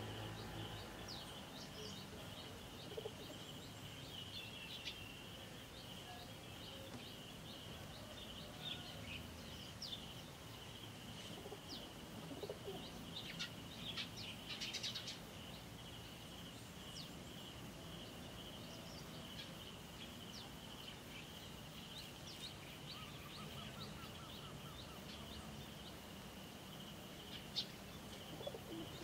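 Faint birds chirping, with short calls scattered throughout and a busier flurry about halfway through, over a steady thin high-pitched tone.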